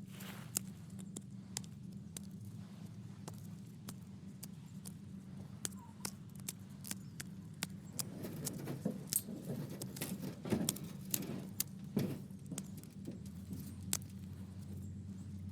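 Wood fire crackling, with irregular sharp pops and snaps that come thicker for a few seconds around the middle.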